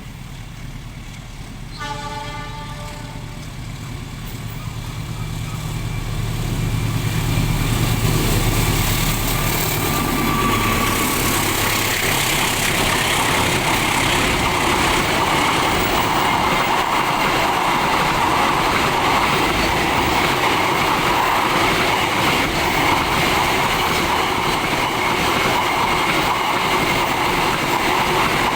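Diesel-hauled container freight train: a short horn blast about two seconds in, then the locomotive's engine rumble builds as it approaches. From about seven seconds the loaded container wagons pass in a loud, steady rush of wheels rumbling and clattering on the rails.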